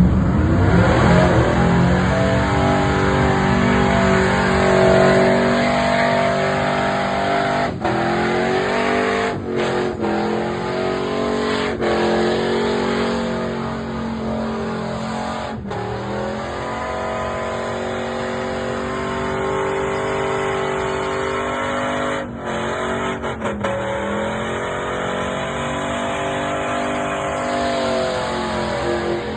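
Burnout truck's engine held at high revs through a burnout. The pitch dips briefly several times as the revs drop and climb straight back.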